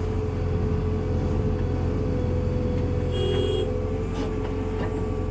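Heavy diesel engine running steadily at a constant pitch, with one short high tone a little past three seconds in.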